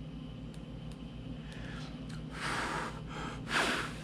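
Two short, noisy breaths from a person, the second one louder, over a steady low electrical hum.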